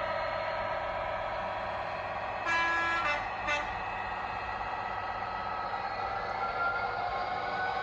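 Sound-fitted Hornby Class 67 model locomotive playing its Class 67 diesel sound file through a small onboard speaker: the engine runs steadily. A horn sounds about two and a half seconds in, followed by a short second toot. The engine note rises near the end as it revs up.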